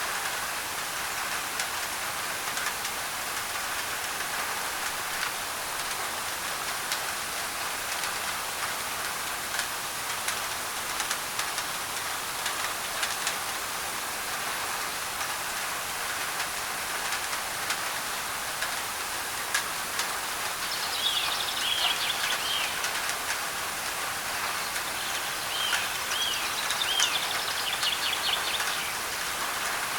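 Rain on a thin tin roof, a steady hiss with many sharp individual drop ticks. From about two-thirds of the way in, a bird calls in short runs of quick, arching high notes.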